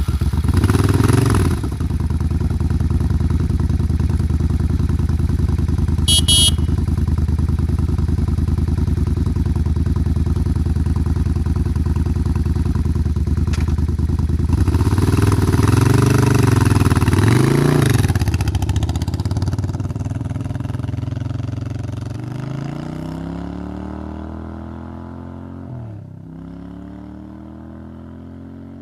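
Suzuki Intruder 800's V-twin engine idling with a steady beat, blipped twice about fifteen to eighteen seconds in, then pulling away and accelerating up through the gears, the pitch climbing with a shift near the end as it fades into the distance.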